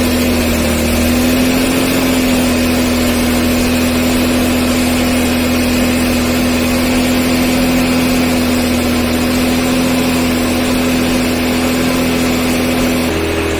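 Honda NSX mid-mounted V6 running at a steady fast idle just after a cold start. The engine note shifts slightly near the end.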